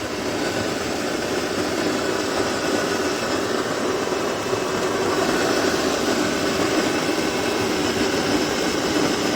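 Smeg CGF01 electric conical burr coffee grinder running, grinding coffee beans: a steady motor hum with a grinding rasp, building slightly in the first second or two and then holding even.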